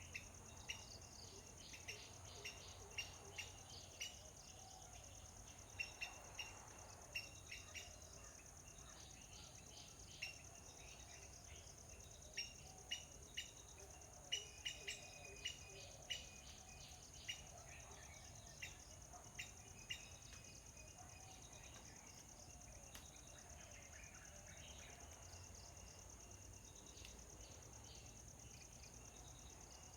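Faint outdoor birdsong: short, sharp chirps come in quick runs for the first twenty seconds or so, then thin out. Under them runs a steady high insect drone.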